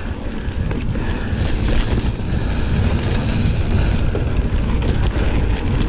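Mountain bike rolling along a dirt trail: a steady low rumble of tyres and wind on the microphone, with scattered clicks and rattles from the bike.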